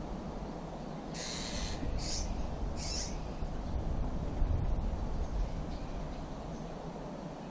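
A bird calling three times: a longer harsh call about a second in, then two short calls at about two and three seconds. Under it is a steady low rumble of wind on the microphone.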